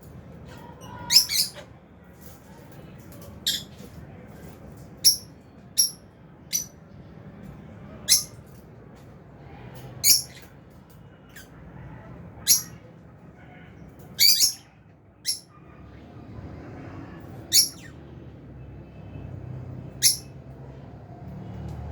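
Lovebirds giving short, shrill, high-pitched chirps, one every second or two, over a faint low hum.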